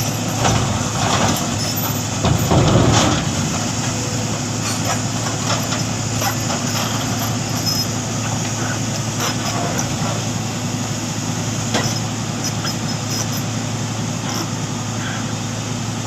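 Heavy truck's diesel engine running steadily with a low, even hum, louder for a moment about two to three seconds in, with a few short sharp sounds over it.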